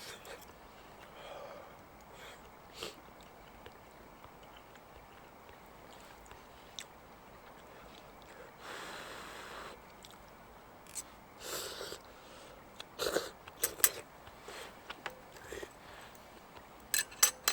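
Scattered small clicks and knocks, several in a quick cluster past the middle and a few more near the end, with a brief rush of noise about nine seconds in.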